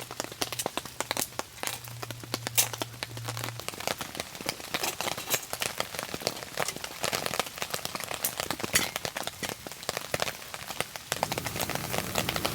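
Rain pattering in dense, sharp drop ticks. A low steady hum runs under it for the first few seconds, stops, and comes back near the end.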